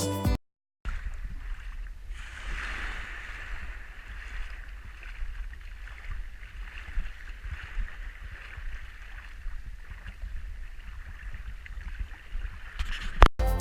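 A steady rushing noise over a low rumble, starting after a brief silence and ending with a sharp click near the end.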